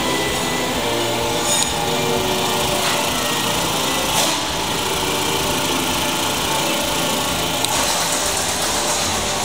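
A 2004 Chrysler PT Cruiser's 2.0-litre four-cylinder engine running steadily at a constant level, with a few faint ticks.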